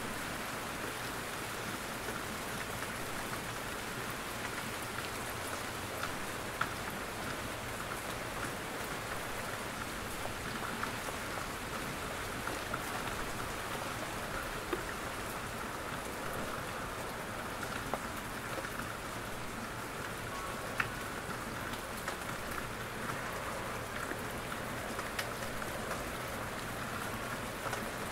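Steady rain falling in a forest, with many drops pattering from the trees and a few louder single drips standing out.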